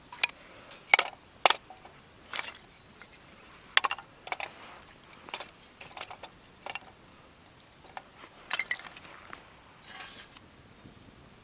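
Irregular light clinks and taps of camp cookware and utensils being handled, with the sharpest knocks in the first few seconds.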